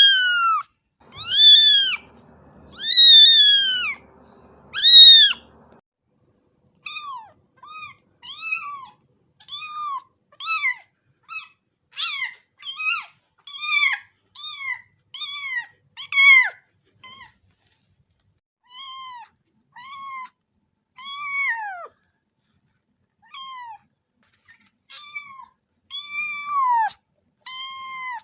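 A cat meowing over and over. The first five seconds hold a few loud, drawn-out meows; after that come shorter, quieter high meows about once a second, several of them sliding down in pitch.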